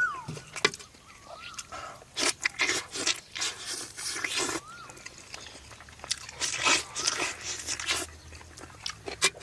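Close-miked eating: bursts of crunching and chewing come in two clusters, mid-way and toward the end. A short wavering high squeak recurs every few seconds.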